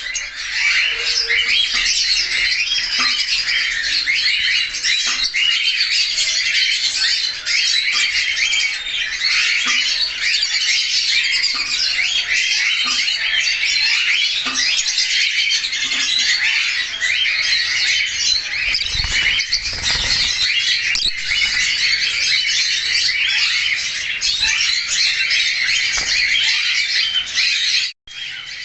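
A flock of caged budgerigars chattering continuously, a dense mix of warbling chirps and squawks, with a brief break near the end.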